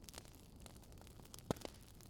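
Wood fire crackling faintly over a low hiss, with a sharp pop about one and a half seconds in and a smaller one just after.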